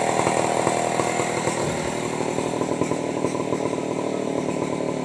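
Stihl 070, a large two-stroke chainsaw, running steadily.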